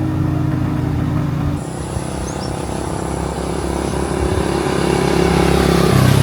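Engines of road-paving machinery running steadily. The sound changes abruptly about a second and a half in, then grows louder, and a heavier engine sound takes over near the end.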